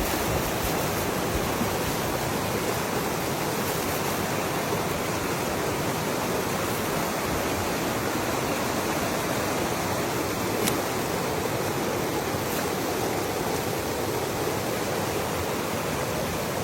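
Steady rush of a mountain stream running close by.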